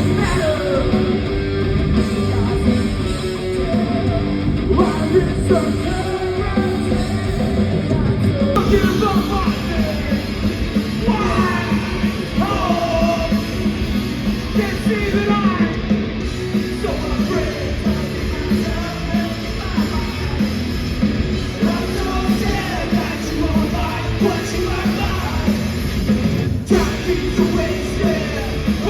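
Loud live heavy rock band playing, with distorted guitars, drums and sung and yelled vocals.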